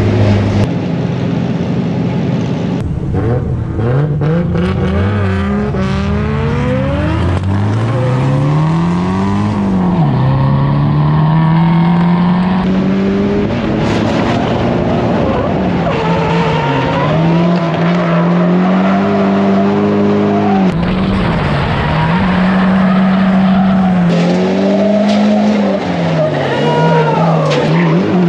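Low-power drift car's engine pulling hard through a drift run, its note rising and falling again and again as the throttle is worked, with tyre noise from the slide.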